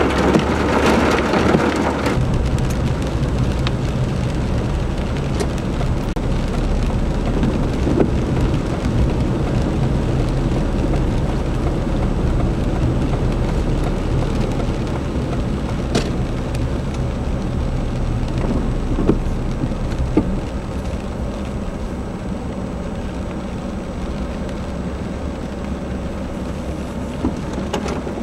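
Steady heavy rain noise with a low rumble underneath, louder for about the first two seconds.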